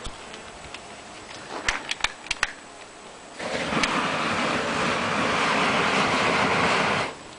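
A few sharp clicks, then a steady hissing rush of about four seconds that stops suddenly: a WD-40 aerosol can sprayed through a lighter flame as a makeshift flamethrower.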